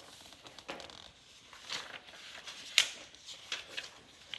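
Paper pages of a handmade junk journal being turned and handled: a string of short papery rustles and flicks, the sharpest about three seconds in.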